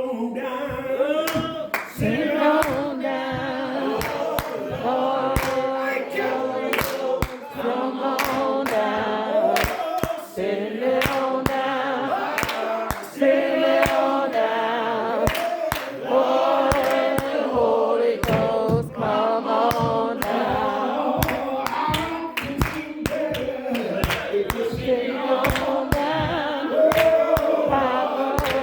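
Church congregation singing a slow gospel hymn together, many voices drawing out long held notes, with sharp hand claps keeping time throughout.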